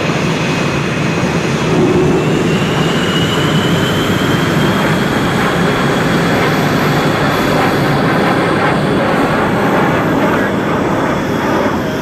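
Canadair CT-133 Silver Star's Rolls-Royce Nene turbojet in flight on a display pass: a loud, steady jet rush with a high whine that rises in pitch and grows louder about two seconds in, then dips slightly near the end.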